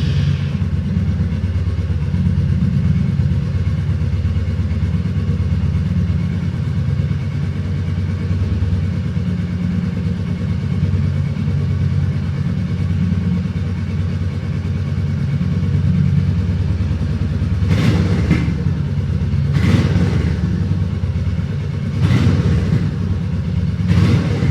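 Royal Enfield Meteor 350's single-cylinder engine idling steadily, with vibration the owner calls very minimal. Four short, sharp sounds come about two seconds apart near the end.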